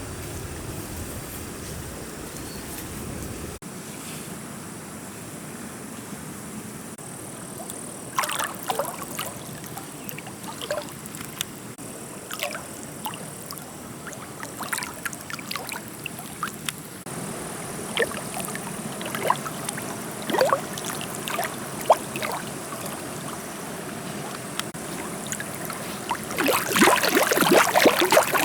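Water splashing and trickling over a steady background hiss, with scattered short splashes. Near the end comes a louder, busier flurry of splashing.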